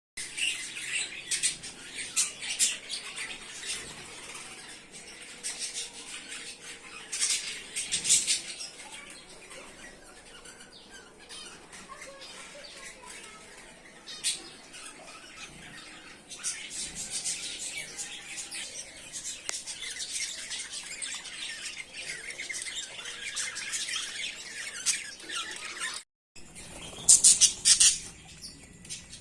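Budgerigars chattering and chirping continuously, with louder sharp squawks now and then. The sound drops out for a moment near the end.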